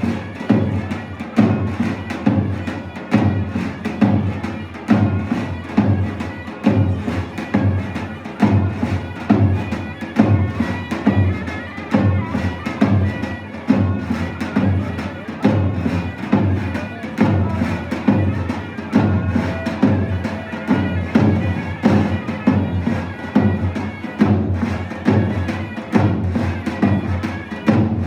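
Turkish folk dance music: a drum beating a steady, even rhythm under a reedy wind instrument playing the tune.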